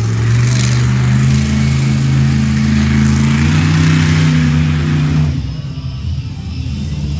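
Loud engine revving hard with a steady pitch that steps higher about three seconds in, then falls away a little after five seconds.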